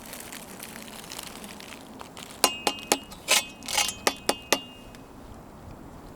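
Camp cookware clinking: about eight light, ringing clinks in quick succession a couple of seconds in, as pots, lids or utensils are handled.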